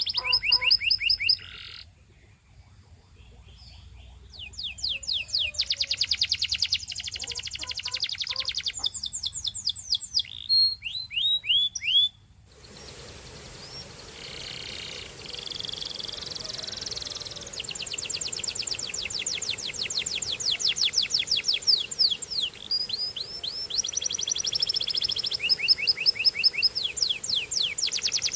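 Canary singing in long fast trills, runs of rapidly repeated high notes broken by swooping notes, with a brief lull near the start. About halfway through a steady hiss comes up behind the song.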